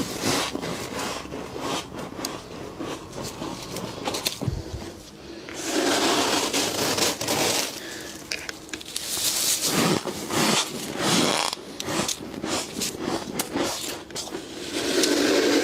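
Built-up frost being scraped and crunched in a series of crackly scraping strokes, each a second or two long.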